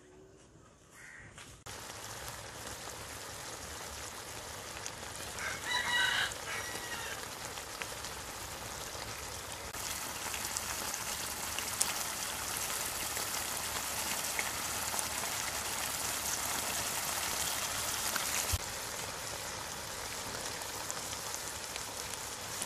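Thick wild boar rendang sizzling and crackling steadily in an open wok, at the stage where the oil is separating out. About six seconds in, a rooster crows once.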